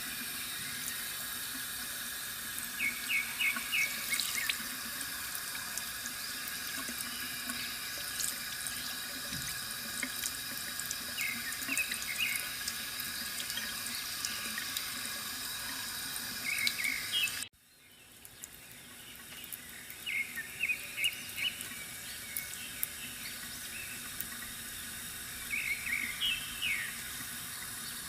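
Bamboo water fountain trickling steadily, with small birds chirping in short quick runs of notes every few seconds. Two-thirds of the way through, the sound cuts out suddenly and fades back in.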